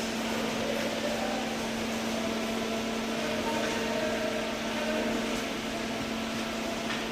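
A steady machine hum: one constant low tone with an even hiss over it, unchanging throughout.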